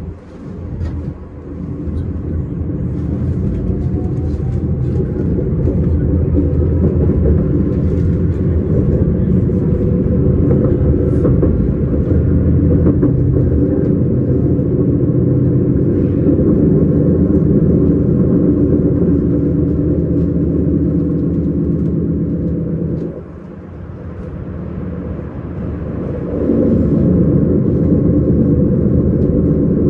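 Electric S-Bahn train running at speed, a steady rumble of wheels on track with droning motor tones. It builds up over the first few seconds, drops away sharply a little after the middle, then rises again.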